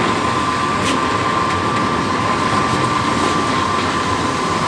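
Steady loud machinery noise with a constant high-pitched whine running through it, and a faint tick about a second in.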